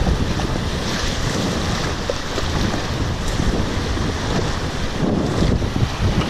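Wind buffeting the microphone over the rush of moving river water.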